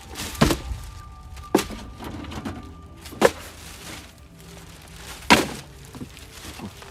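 Four sharp thunks, one to two seconds apart, the last the loudest.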